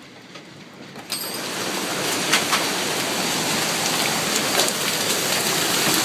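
Heavy storm rain and wind, coming in suddenly about a second in and staying loud, with a few sharp hits against it.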